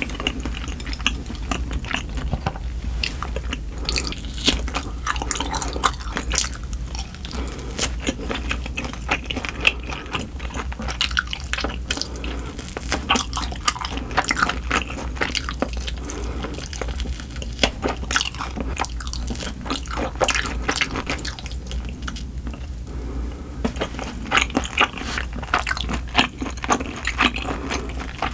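Close-miked eating sounds: dense, irregular wet chewing clicks and crunches as spicy buckwheat noodles and grilled oxtail are bitten and chewed, briefly quieter a little past the three-quarter mark. A steady low hum runs underneath.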